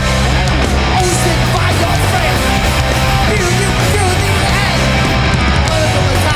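Hardcore punk band playing live and loud: distorted electric guitars, bass and drums, a constant full-band wall of sound.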